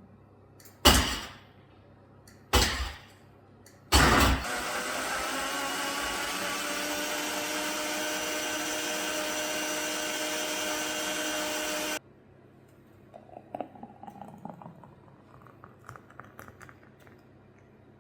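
An electric kitchen appliance motor is pulsed twice briefly, then run continuously for about eight seconds. Its pitch rises as it spins up, then holds steady until it stops abruptly. Light clinks and clatter of handling follow.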